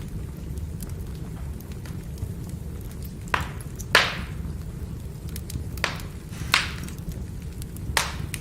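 Firewood burning, with a steady low rumble of flame and five sharp crackling pops, the loudest about four seconds in.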